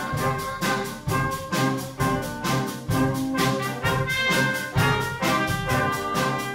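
Brass band playing a piece with a steady beat.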